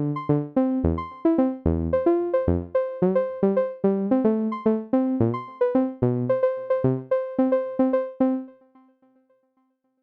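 GarageBand synthesizer keyboard playing a quick run of electronic piano-like notes over bass notes, about three or four notes a second. It stops about eight and a half seconds in, the last note dying away.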